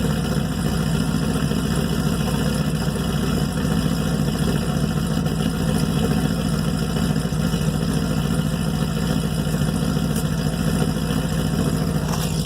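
Pontiac G8 GT's 6.0-litre V8 idling steadily through PaceSetter long-tube headers and a Solo Performance Mach Shorty cat-back exhaust, which the owner finds still excessively loud.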